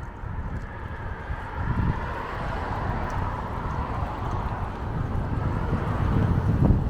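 Wind rumbling on the microphone over continuous road and tyre noise while riding a bicycle, with a hiss that swells and fades over a few seconds in the middle.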